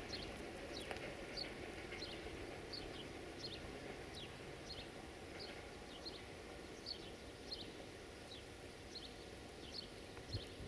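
A small bird calling, repeating short high falling chirps about two a second, over a faint steady background hum.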